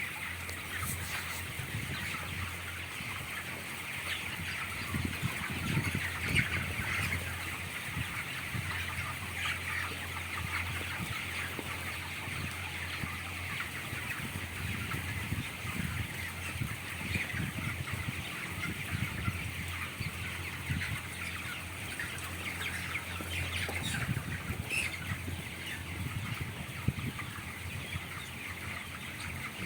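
A large house of broiler chickens, about 25 days old, calling and clucking continuously in a dense chatter over a steady low hum.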